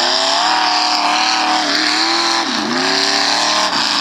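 Off-road truck engine revving hard under load. The pitch climbs and holds high, dips sharply about two and a half seconds in, revs back up, then falls away near the end.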